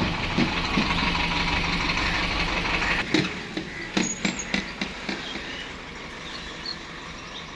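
A motor vehicle's engine running with a steady hum, dropping away about three seconds in, followed by a few short clicks and knocks.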